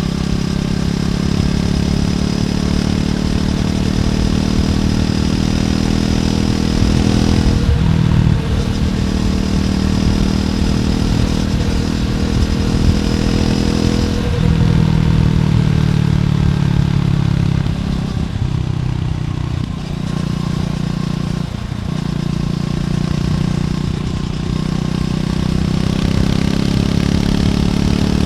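Triumph Scrambler 400X's single-cylinder engine through its stock exhaust, running under way as the bike rides. The engine note breaks briefly about four times, each break followed by a change in pitch.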